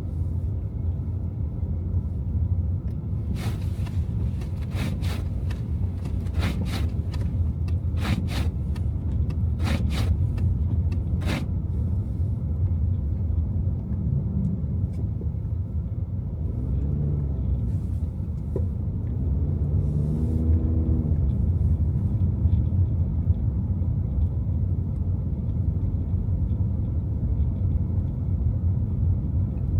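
A car driving on snowy city streets, with steady low road and engine rumble. In the first third comes an uneven string of about fifteen sharp clicks. Later an engine note swells and falls away twice, a few seconds apart.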